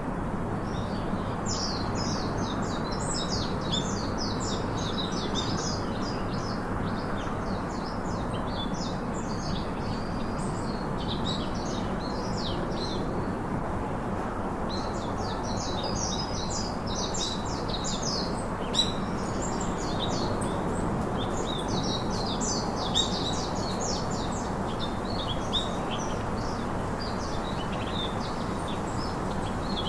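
Many small birds chirping in dense, overlapping bursts, thinning out around the middle and picking up again, over a steady low background hiss.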